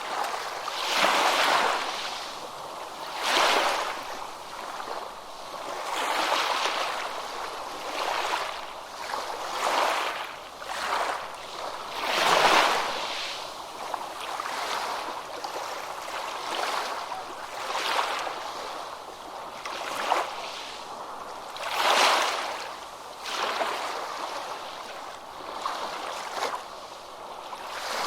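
Ocean waves breaking and washing up a beach, with a surge of surf every two to three seconds. The biggest surges come about twelve seconds in and again about twenty-two seconds in.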